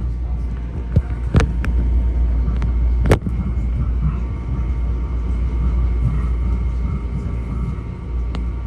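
Steady low rumble and hum inside a Metro-North M7A electric railcar standing at a station, with two sharp clicks about one and a half and three seconds in.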